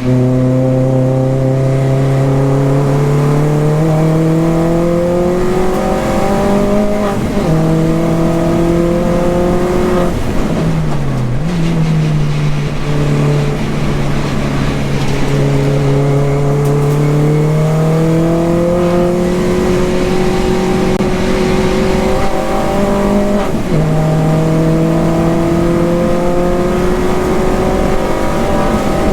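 The engine of a 300 hp Mini R55 Clubman race car under hard acceleration on track. Its pitch climbs steadily through each gear and drops sharply at a handful of upshifts, with one brief lift and dip near the middle.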